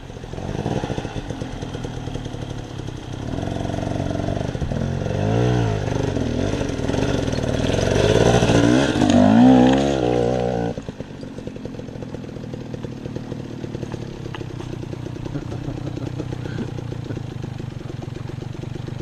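Dirt bike engine revving up and down in repeated surges, loudest about nine seconds in. About eleven seconds in it drops suddenly to a steady, quieter idle.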